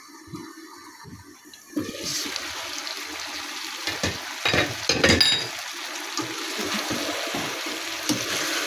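Potato slices frying in oil in a nonstick wok, with no water added. The pan is quiet at first, then sizzles loudly with a steady hiss from about two seconds in. A slotted spatula scrapes and turns the slices, making several knocks around four to five seconds in.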